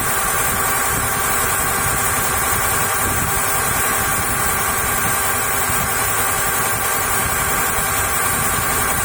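Engine running at a steady speed through a NICO 3:1 marine reduction gearbox: a constant, even din with a steady whine held over it.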